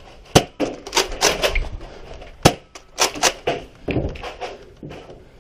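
Nerf Rival Apollo blasters firing foam balls: a string of about seven sharp cracks, two of them louder than the rest.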